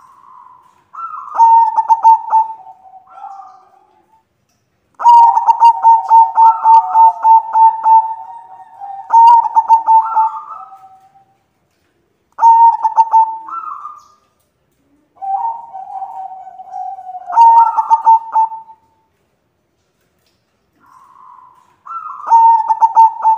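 White zebra dove (perkutut) cooing: five bouts of quick stuttering coos, each a second or two to several seconds long, with short pauses between.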